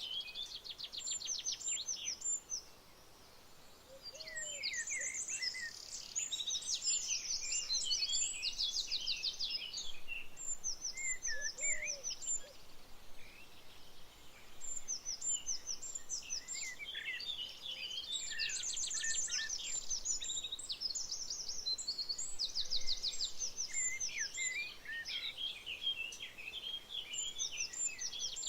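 Several birds singing and calling: rapid trills, chirps and whistled notes, coming in bouts with short pauses between them.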